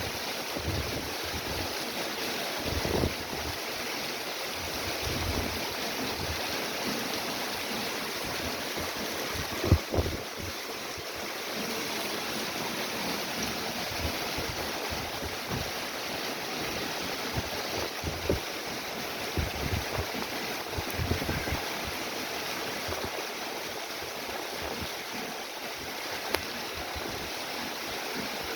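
Heavy rain falling steadily, with gusts of wind buffeting the microphone and a sharp thump about ten seconds in.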